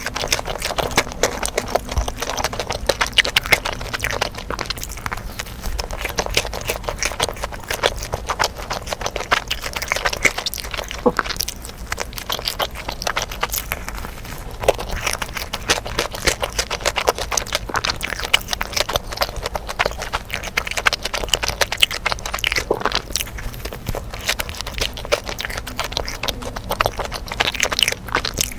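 Close-miked chewing: a steady stream of dense, rapid crunchy clicks and crackles of food being bitten and chewed.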